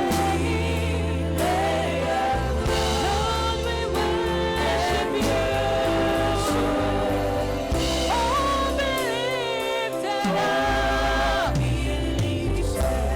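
Live gospel worship music: a band holds sustained bass and keyboard chords while voices sing long notes with vibrato and ad-lib runs.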